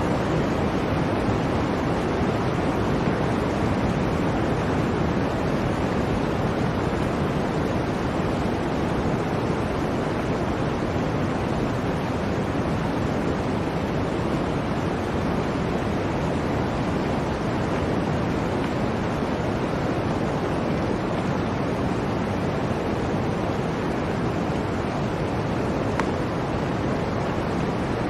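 Blizzard wind blowing steadily: an even rushing noise with no gusts or breaks.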